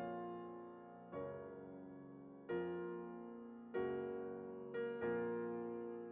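Background music: slow piano chords, a new chord struck about every second or so, each fading away before the next.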